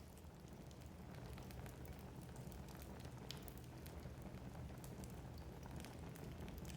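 Wood fire burning in a fireplace: a soft, steady low rumble of flames with scattered sharp crackles and pops from the burning logs.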